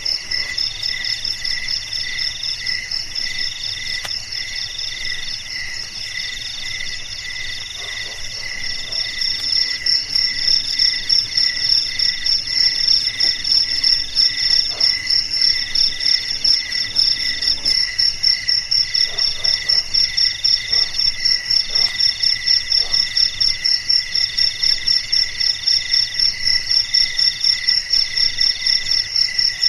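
Night chorus of crickets chirping continuously, several overlapping pulsed calls at different pitches, growing louder and more plainly rhythmic about ten seconds in.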